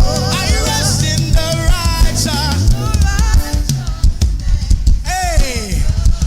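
Live worship band music with a drum kit keeping a steady beat under a melody line.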